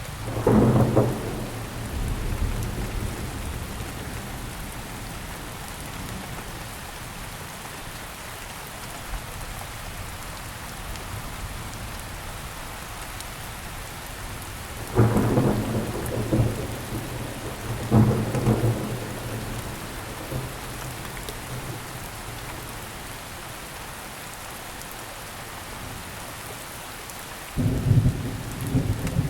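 Steady rain falling, with four rolls of thunder: one at the start, two about three seconds apart in the middle, and one near the end.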